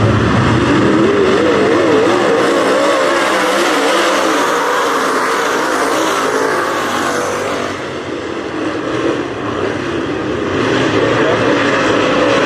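Race car engines running hard on the track, their pitch wavering up and down as the cars go around. The sound eases slightly about eight seconds in and builds again near the end.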